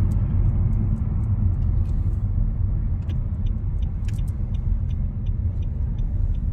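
Steady low road and engine rumble inside a moving car, with faint light ticks repeating a few times a second from about halfway in.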